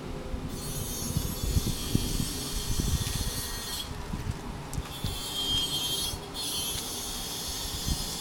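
Suzuki 250SB's single-cylinder engine running through a Yoshimura aftermarket muffler, with an uneven, lumpy beat that is loudest a second or two in.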